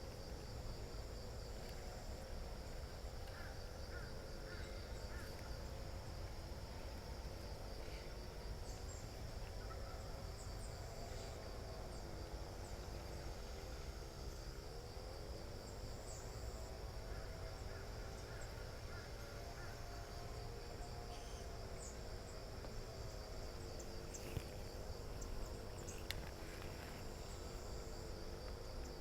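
Steady chorus of insects with a fast, pulsing high trill, over a low wavering drone that slowly rises and falls in pitch, with a few faint clicks.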